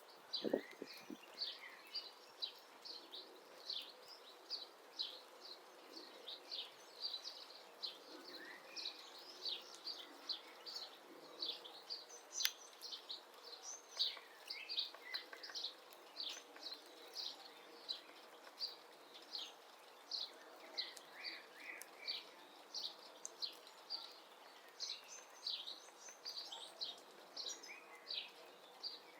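Small birds chirping steadily, a run of short high chirps about two or three a second, with a single sharp tap about twelve seconds in.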